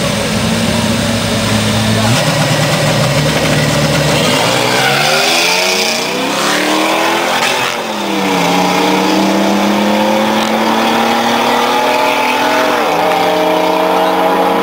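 Car engine accelerating hard in a drag race. It holds a steady note for about four seconds, then climbs in pitch, with gear changes about eight and thirteen seconds in.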